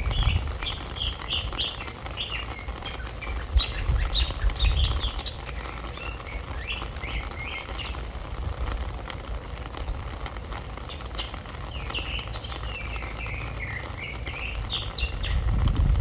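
Small songbirds chirping and twittering in quick series of short, high notes, with low wind rumble on the microphone near the start and the end.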